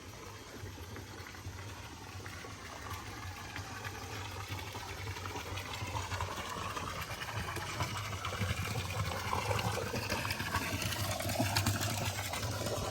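Running water with a steady rushing sound that grows gradually louder.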